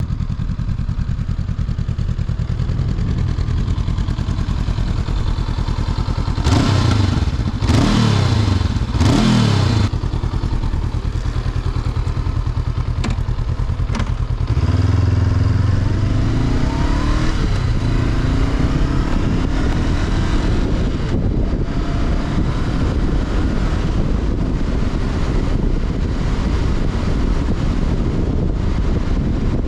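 Honda CB500X's parallel-twin engine idling, then blipped three times in quick succession, then pulling away and accelerating through the gears from about halfway, the note rising and dropping back with each upshift.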